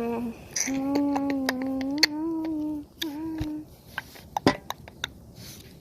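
A person humming: a short note, then a long held note of about two seconds and a shorter one after it, followed by a few sharp clicks and knocks.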